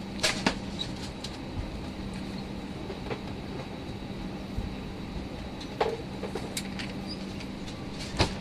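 Steady cabin noise of an Airbus A319 parked at the gate, engines not yet running: air-conditioning hiss over a constant low hum, broken by a few sharp clicks and knocks near the start, about six seconds in, and near the end.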